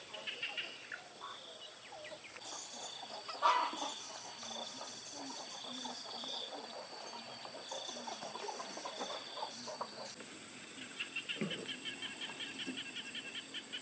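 Farmyard chickens calling against a steady high insect whine, with one louder brief call about three and a half seconds in and a quick run of chirps near the end.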